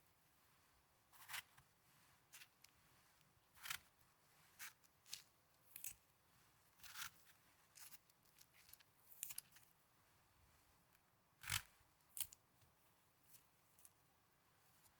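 Snow being squeezed and crunched close to the microphone: a dozen or so separate short, crisp crunches at irregular intervals, with quiet between them. The loudest comes near the end.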